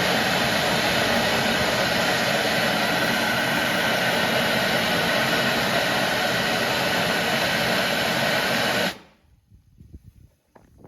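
Steam locomotive venting steam with a loud, steady hiss that cuts off suddenly about nine seconds in.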